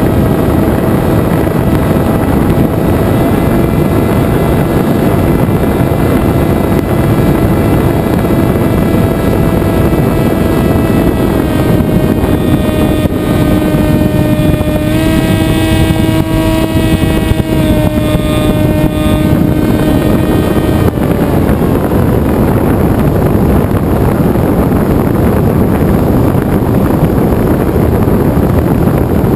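Venturi FPV flying wing's motor and propeller whining at a steady pitch over heavy wind rush on the onboard microphone. The pitch steps up for a few seconds around the middle as throttle is added. About two-thirds through, the motor fades out and only wind rush is left as the wing glides.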